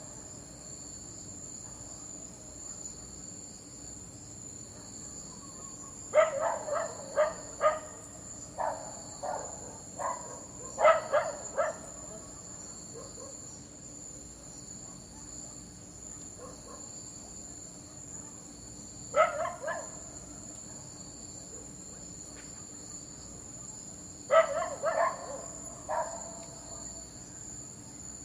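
A dog barking in several bouts of a few quick barks each, with long pauses between them, the longest about seven seconds. A steady high insect trill, like crickets, runs underneath.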